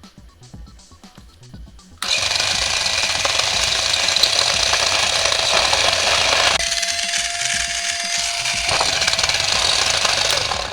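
Toy car under high voltage: a loud, harsh electrical buzzing crackle starts abruptly about two seconds in and cuts off suddenly near the end, with a steady whine for about two seconds in the middle.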